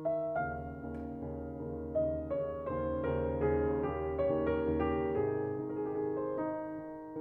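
Slow piano music: single melody notes over held low bass notes.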